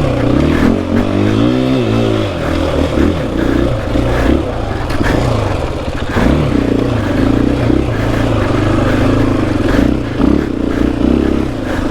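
KTM 500 EXC-F dirt bike's single-cylinder four-stroke engine running under load on a hill climb, its revs rising and falling again and again as the throttle is worked.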